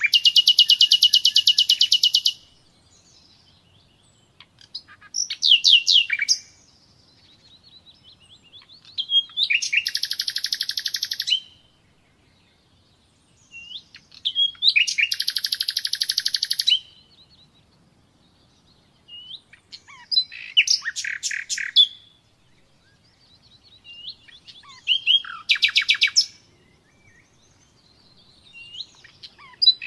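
Nightingale singing: short song phrases about every four to five seconds, each a fast run of repeated notes and rattling trills, with quiet pauses between phrases.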